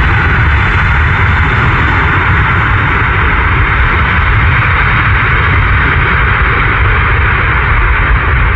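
Jet airliner's engines roaring steadily as it lands, with a heavy low rumble underneath; the highest part of the roar slowly thins out toward the end.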